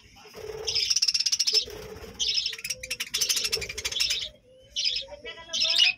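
Flock of budgerigars chirping and chattering in repeated overlapping bursts, with fast rattling trills among the calls.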